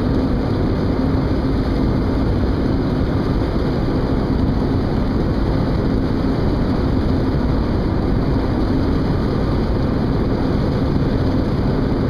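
A boat's engine running steadily: a constant low drone with a steady hum through it.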